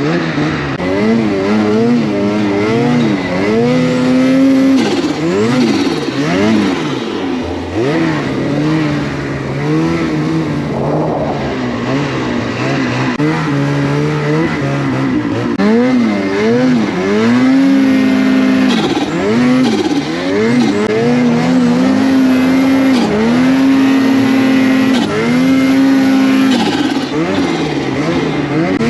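A motor vehicle's engine revving up and down repeatedly, its pitch rising and falling over and over.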